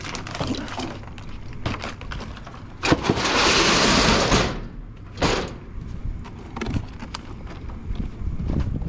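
Drink cases being shifted around a delivery truck, with scattered knocks and clatter. About three seconds in comes a loud rushing scrape lasting about a second and a half, then a shorter one about two seconds later.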